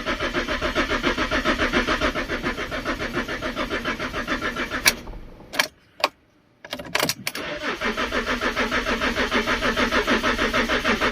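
Fiat Stilo Abarth's 2.4 five-cylinder engine cranking on the starter with a rapid, even rhythm, in two long attempts separated by a short pause with a click or two. It never catches: the car has stood for years and does not run.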